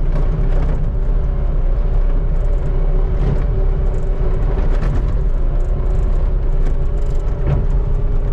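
Skid steer engine running steadily with a loud low rumble and a steady hum, broken by a few short knocks.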